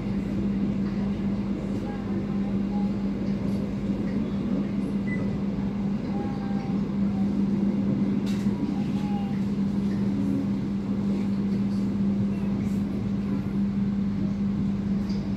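Passenger train running along the line, a steady hum over continuous rolling rumble, with a few faint clicks.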